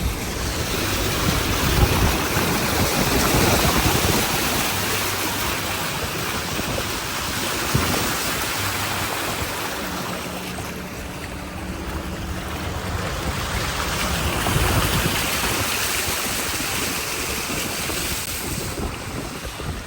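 Car driving on a rain-soaked road, heard from inside: a steady hiss of tyres through water and rain, with the engine running low underneath.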